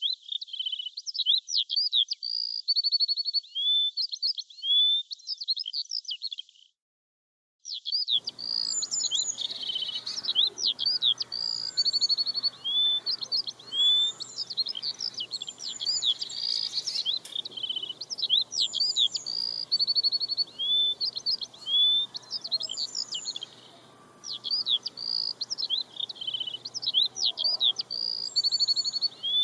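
Songbirds chirping: a busy run of high chirps, quick sweeps and fast trills that repeats the same sequence about every six seconds. It breaks off for about a second near the seven-second mark, then resumes over a faint background hiss.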